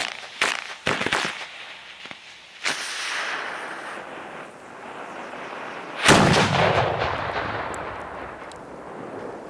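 Fireworks going off: a quick run of sharp firecracker bangs, a bang a little under three seconds in that trails off in a long fading rush, and the loudest boom about six seconds in, rolling and echoing for several seconds.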